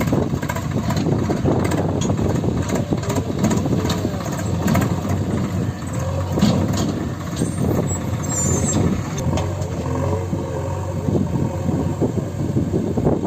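A heavy diesel engine running steadily under load, with irregular clattering knocks over its low drone.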